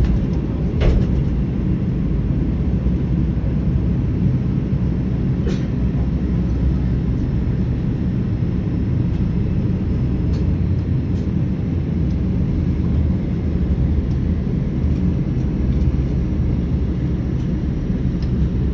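Steady low rumble of a jet airliner, with a couple of faint clicks near the start and about five seconds in.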